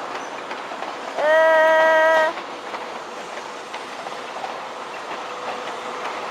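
Train moving through the station with a steady rumble of wheels on track, and a single steady horn note lasting about a second, a little over a second in.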